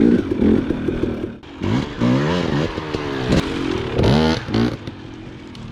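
Dirt bike engine revving up and down while riding a trail. The throttle drops off briefly about a second and a half in, and the revs sweep up again near four seconds.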